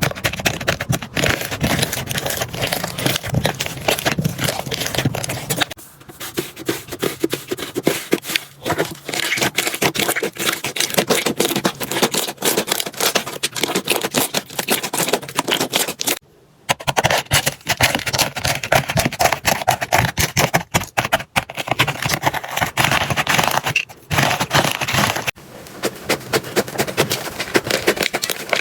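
Slime being squeezed, pressed and poked by hand, giving a dense run of crackling, clicking and squelching sounds. A short break a little past halfway points to a cut to another slime clip.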